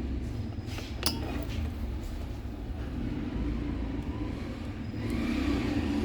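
Steady low rumble of passing road traffic, with a couple of light clicks about a second in and a louder rushing swell near the end.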